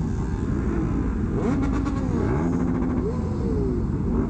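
Several motorcycle engines revving up and down together, their pitches rising and falling and overlapping over a steady low rumble.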